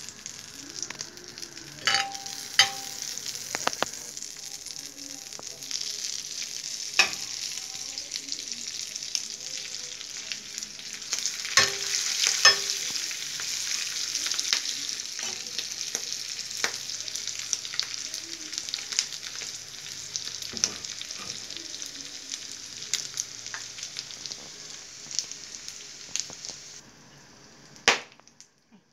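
Butter and ground pork sizzling steadily in a frying pan, with a metal spatula now and then clinking and scraping against the pan as the meat is stirred. The sizzle cuts off shortly before the end, followed by one more sharp clink.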